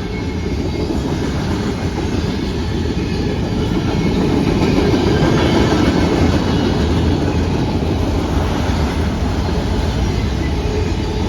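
Freight train rolling past, its wheels running over the rails in a steady rumble that swells a little toward the middle.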